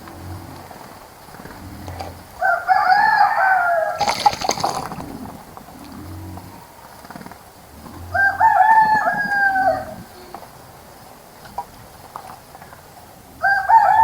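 A rooster crowing three times, roughly five seconds apart, each crow lasting under two seconds and falling in pitch at the end; the last crow starts near the end. A brief noisy rush cuts across the end of the first crow.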